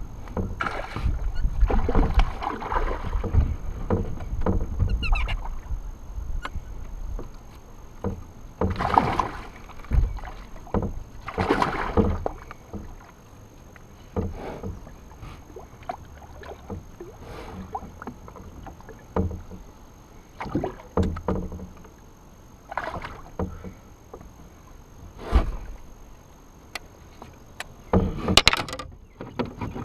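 Irregular knocks, bumps and water splashes around a kayak while a hooked largemouth bass is fought and brought in, with a low rumble in the first few seconds.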